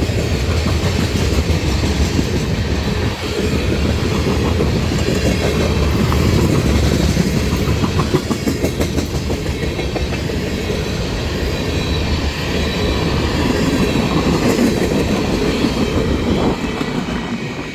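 Norfolk Southern freight train 32A rolling past, its steel wheels clattering rhythmically over the rail joints under a steady rumble.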